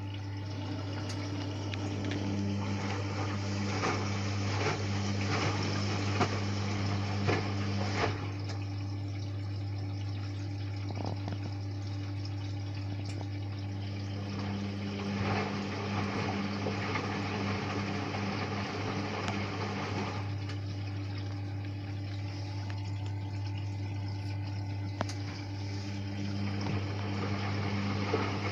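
Hotpoint Ariston washing machine mid-wash: a steady hum with the drum motor turning in bouts of about six seconds separated by pauses, water sloshing and knocking in the drum while it turns.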